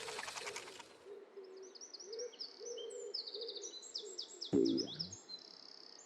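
A music cue dies away in the first second, giving way to twittering birdsong over soft, low, repeated hooting calls. About four and a half seconds in comes one short, louder, low sound that drops in pitch.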